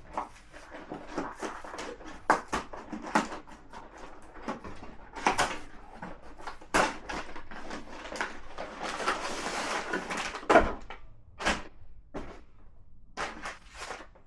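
Packaging being handled and opened: irregular clicks, knocks and rustles, with a longer rustle about nine seconds in and a sharp knock just after it.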